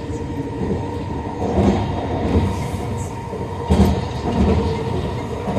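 SkyTrain car running along its track, heard from on board: a steady rumble and hum with wheel-and-rail noise and a few short knocks, the loudest nearly four seconds in.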